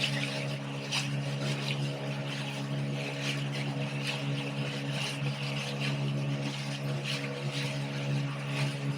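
Speedboat engine running at a steady speed, with water rushing and splashing against the hull.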